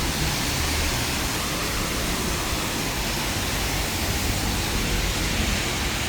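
Heavy rain falling on a city street, a steady even hiss with a low rumble underneath.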